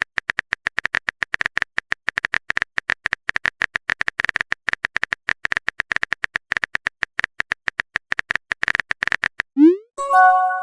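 Rapid phone keyboard typing clicks, about seven a second, then a quick rising swoosh of a message being sent and a short chime of a message arriving near the end.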